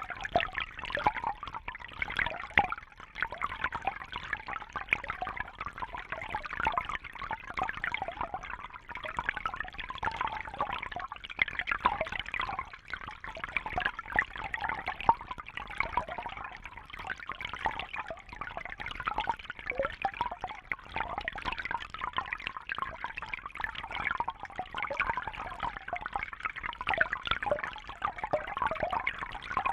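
Water trickling and bubbling steadily, a constant busy splashing without pauses.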